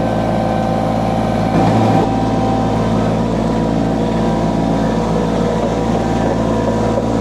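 Derette XC1100 mini skid steer's small diesel engine running at a steady speed.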